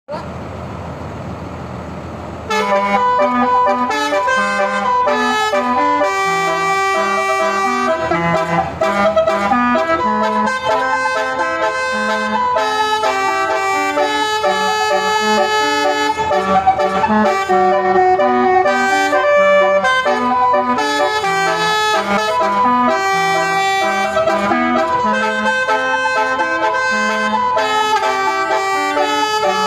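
A bus's multi-tone musical air horn, an Indonesian 'telolet' horn, playing a melody of held horn notes. It opens with a couple of seconds of steady hiss before the notes begin.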